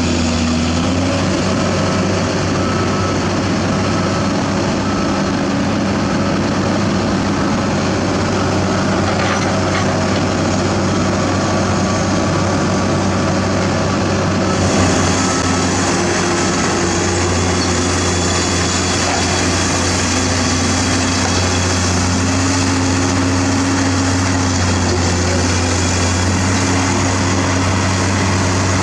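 Heavy diesel construction machinery running steadily, a deep engine hum under mechanical noise, with a brighter hiss joining about halfway through.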